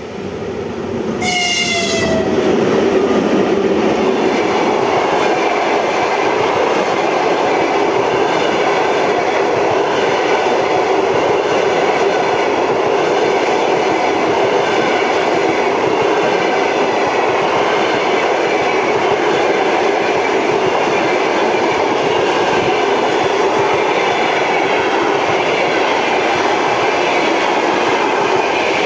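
A train passing at speed with a steady rolling rumble and clatter of wheels on rails. About a second in there is a short horn blast that drops in pitch as the train goes by.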